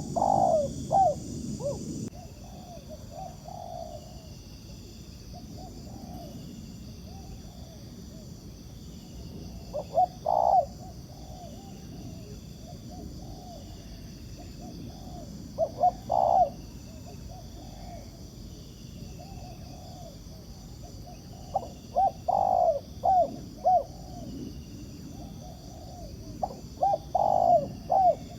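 Spotted doves cooing: about five short cooing phrases a few seconds apart. Behind them run a steady high-pitched drone and faint repeated chirps.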